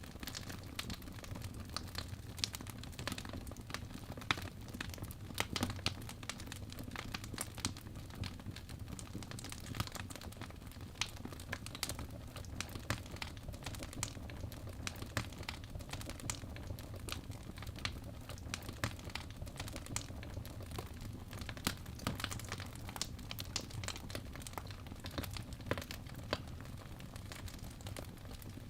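Birch logs burning in a fireplace: a steady low rumble of flame with irregular sharp crackles and pops, several a second.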